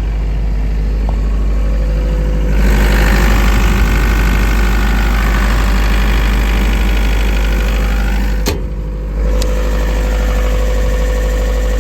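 Yanmar diesel engine of an Atlas Copco QAS 38 40 kVA generator running steadily. It grows louder and brighter about two and a half seconds in, and near the end there is a sharp click and a brief drop in level before it settles back to steady running.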